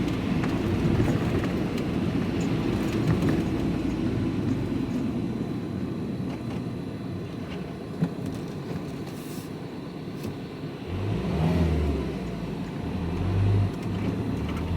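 Diesel vehicle driving, heard from inside the cab: steady engine and road noise with tyre hiss on a wet road. The engine note rises about eleven seconds in as it accelerates.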